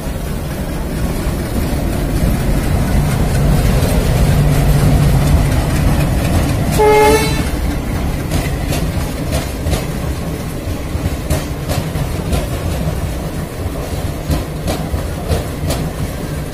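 A diesel-hauled passenger train passing close by. The low engine drone builds over the first few seconds, a train horn gives one short blast about seven seconds in, and then the wheels clatter over the rail joints as the coaches roll past.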